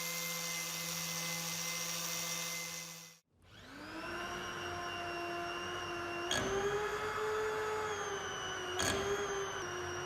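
Electric power tool motor running at a steady pitch, then cutting off abruptly about three seconds in. A motor then spins up again and runs steadily, with two short knocks near the middle and near the end as the pitch briefly shifts.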